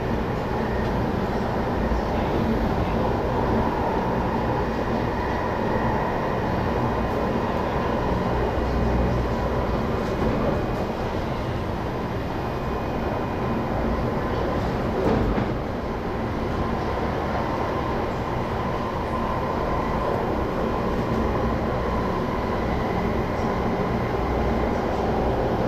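Interior running noise of an MTR IKK-Train car in motion: a steady rumble from the wheels and running gear, with one brief knock about fifteen seconds in.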